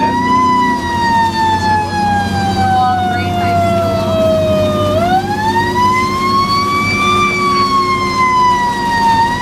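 Fire engine's siren wailing: the pitch sweeps quickly up, then slides slowly down for several seconds, and does this twice, over the steady drone of the truck's engine.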